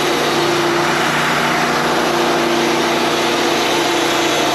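Forklift engine running steadily, a constant hum over a dense mechanical noise.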